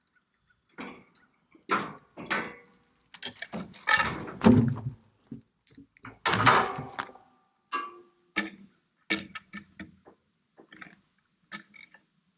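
An irregular series of knocks and clunks, about a dozen, with short quiet gaps between them; the heaviest come a few seconds in.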